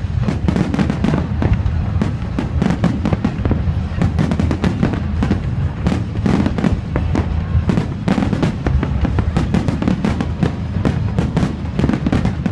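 Fireworks display going off in a dense, rapid string of bangs, many per second, over loud music with a heavy low bass.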